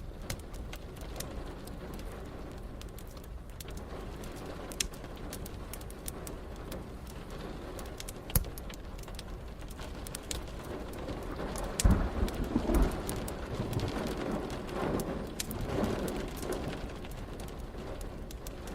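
Steady rain with the sharp pops and crackles of a wood fire throughout. About two-thirds of the way in, a low roll of thunder rumbles for a few seconds and fades.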